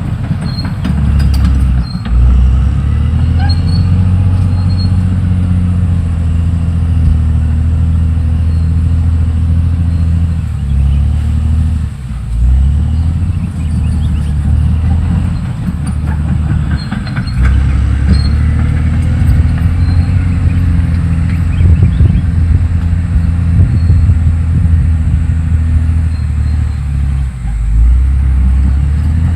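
CAT D6R XL bulldozer's diesel engine running under shifting load, its pitch and level rising and falling several times, with the clatter of the machine working.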